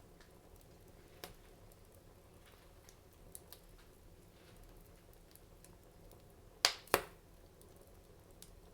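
Wood fire in a fireplace crackling, with a few sparse small pops and two loud sharp pops in quick succession about two-thirds of the way through.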